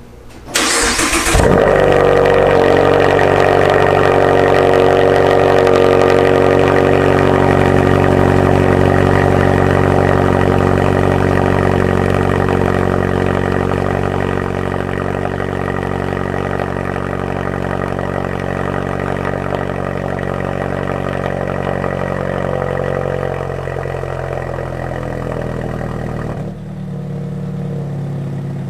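A 2017 Mazda 3 GT's four-cylinder engine, breathing through a Borla axle-back exhaust with the resonator deleted, is cranked by the starter for about a second and catches. It then runs at a fast idle that slowly settles lower. Near the end the sound drops abruptly.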